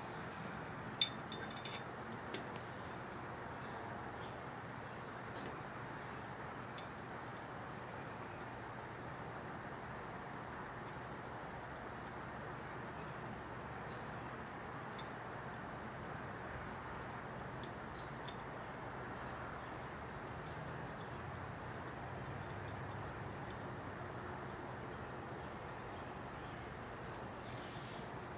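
Outdoor ambience: a steady low hiss with small birds chirping in short, frequent high calls throughout. A few sharp clicks come in the first few seconds.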